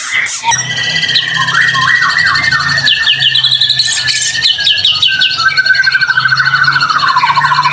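White-rumped shama singing a loud, fast, varied song of whistles and rapid trills, ending in a steady fast trill that drops lower about seven seconds in.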